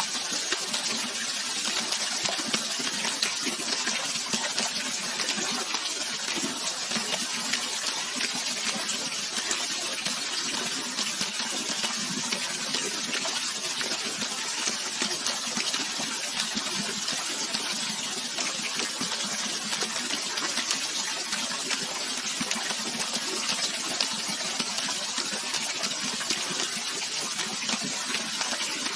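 Running water rushing steadily as an even, unbroken hiss with a fine splashing flicker, a natural river or waterfall.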